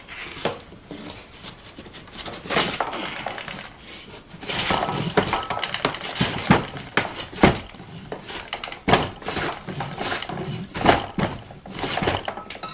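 Hand plane shaving the edge of plywood: a series of uneven rasping strokes, roughly one a second, as the piece is trimmed down to match the pattern.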